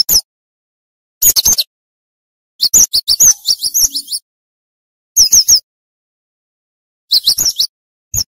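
Cinereous tit (gelatik batu) calling in short, rapid bursts of sharp, high notes, each note a quick downward sweep. There are five bursts, about a second or more apart, the longest a little after two and a half seconds in.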